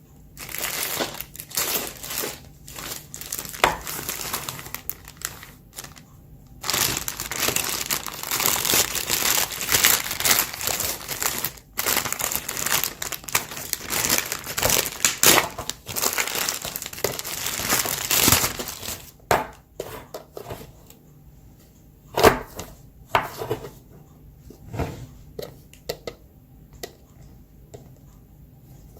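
Crinkly almond snack packaging being handled and rustled, with dense continuous crackling for about ten seconds in the middle and scattered crackles before and after.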